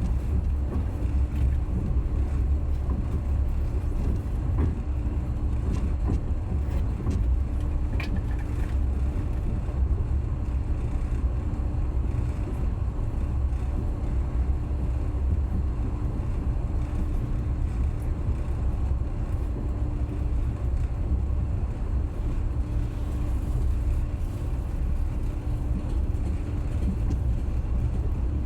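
Passenger train running: a steady low rumble of the carriage and its wheels on the rails, with a steady hum over it and a brief squeak about eight seconds in.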